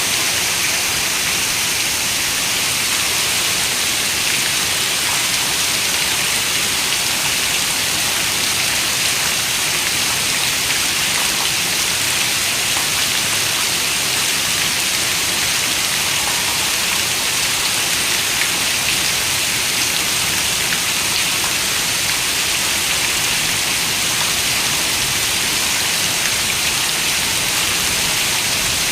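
Steady rain falling, an even hiss of many drops with faint scattered pattering and no thunder.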